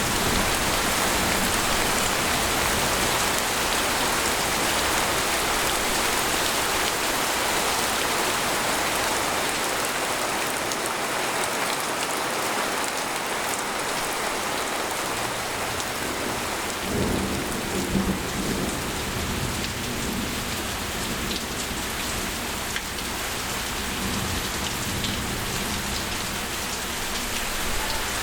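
Steady, heavy rain falling on a tent, heard from inside it. A low rumble of thunder comes about two-thirds of the way through, and a fainter one follows a few seconds later.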